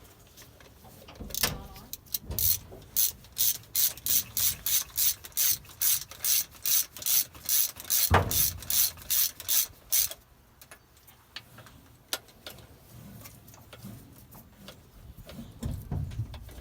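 Ratchet wrench clicking in a steady rhythm, about three clicks a second, for roughly eight seconds before stopping. One heavier knock comes partway through.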